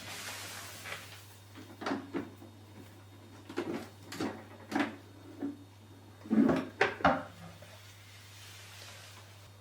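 Plastic knocks and clunks of a dehumidifier's water collection tank being handled and slid in its housing, about ten separate strokes with the loudest two near the middle, over a faint steady low hum.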